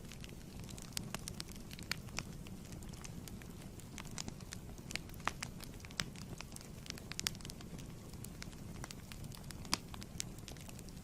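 Fireplace fire burning steadily, a low rumble of flame with irregular sharp crackles and pops of burning wood.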